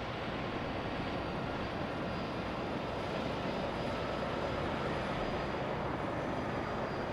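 Freightliner semi-truck driving by: a steady rumble of diesel engine and tyre noise that swells slightly through the middle.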